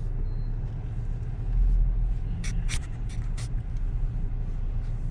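Car driving, a steady low road-and-engine rumble, with a few light clicks a little past halfway.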